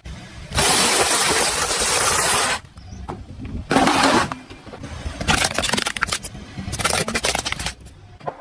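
Car engine rumbling, with a loud hiss lasting about two seconds, a short burst about four seconds in, then a stretch of crackling noises.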